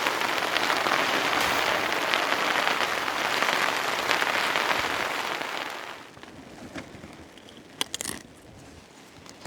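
Hail coming down hard, a dense steady patter that dies away about six seconds in, leaving a quiet background with a few scattered sharp clicks near the end.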